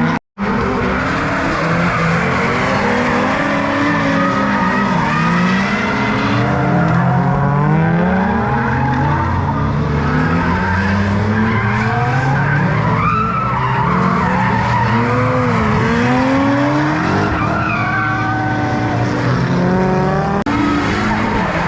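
Several drift cars sliding together, their engines revving up and down over one another with tyres squealing and skidding. A brief dropout just after the start.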